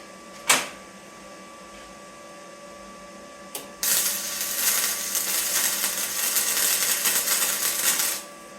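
A sharp click, then about four seconds of flux-core wire welding: the arc's steady crackle and sizzle starts abruptly and cuts off sharply as the bead is laid.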